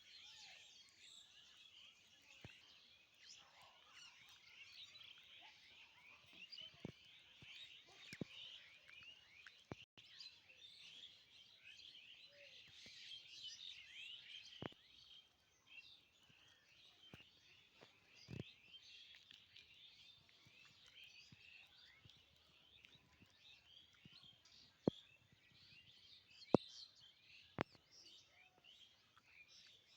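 Faint chorus of many small birds chirping together, with a few sharp clicks near the end.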